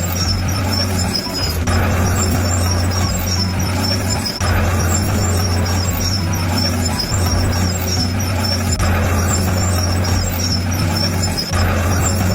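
Shantui crawler bulldozer's diesel engine running under load with a steady low drone that briefly dips about a second in, about four seconds in, about seven seconds in and near the end.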